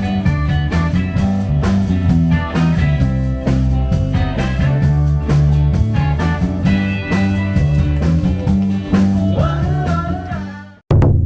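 Live rock band with electric guitars, bass and drums playing an instrumental passage with bending guitar lines. Near the end the music drops out, then the whole band hits one last loud chord that rings out and fades.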